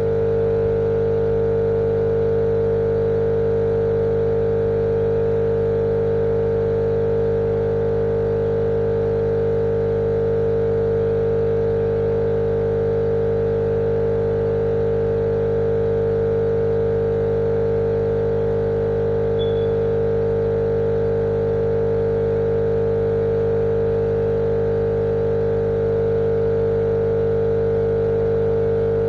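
A steady, unchanging machine drone played as a baby-sleep white-noise track: a strong mid-pitched hum with deeper hums beneath and a faint hiss on top.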